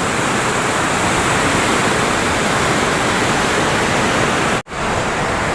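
Hill river rushing loudly below the bridge, a steady roar of fast-flowing water. It cuts out for an instant near the end.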